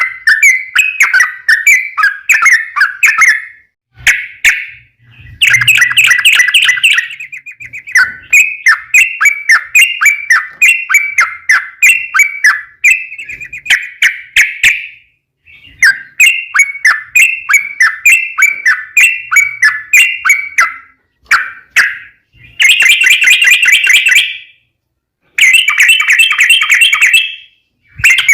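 Yellow-vented bulbul singing long, rapid phrases of bubbly chattering notes, several a second, broken by short pauses, the loud song used as a lure call to get other bulbuls to answer.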